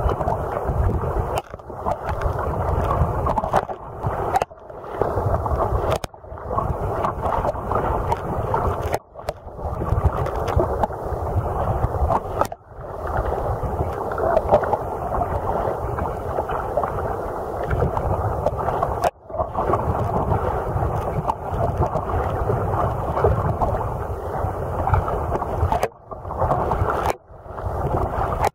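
Steady rushing noise of water and wind around a sea kayak on the open sea, with wind on the microphone, cut by several sudden brief dropouts.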